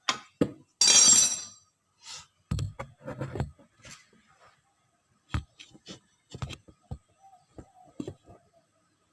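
Irregular knocks and clinks of hand tools and parts being handled during a washing-machine spin-motor repair, with a short, louder hissing scrape about a second in.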